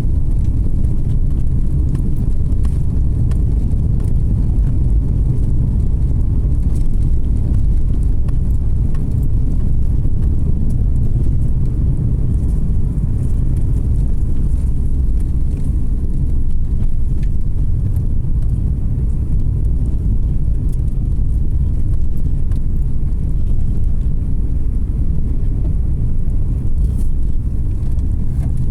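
Car driving along a road: a steady low rumble of tyres and engine, with faint scattered ticks.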